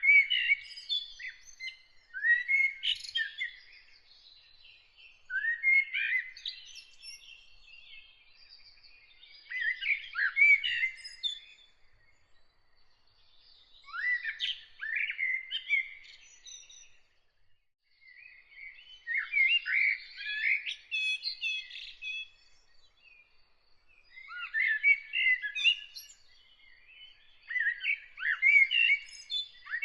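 A songbird singing in short phrases of warbling, twittering notes, each lasting one to two seconds, with a gap of two or three seconds between phrases. A faint, thin high note repeats in the background at times.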